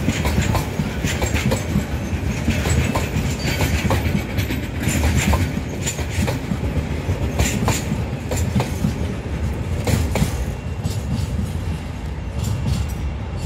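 A train running: a steady low rumble with irregular sharp clicks and clanks throughout.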